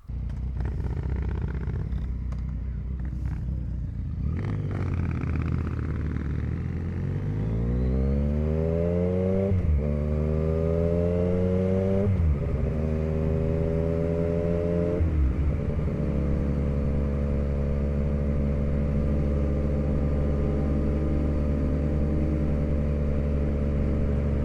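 Motorcycle pulling away and accelerating up through the gears: the engine's pitch climbs and drops sharply at three upshifts, then holds steady at cruising speed. A few clicks and clatter come before it pulls away.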